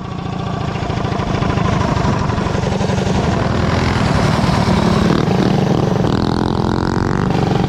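Predator 212cc single-cylinder mini bike engine running, growing louder over the first couple of seconds and then holding a steady speed.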